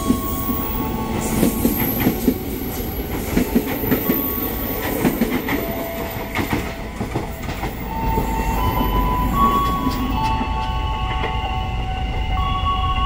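Electric commuter train running past on the near track, its wheels clacking over the rail joints. About eight seconds in, a low rumble builds, together with several steady high-pitched squealing tones from train wheels.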